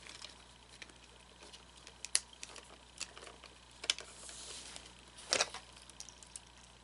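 Scattered clicks and taps of small plastic parts being handled as an animatronic figure's gear mechanism is taken apart, with a short scrape and then the loudest knock a little over five seconds in.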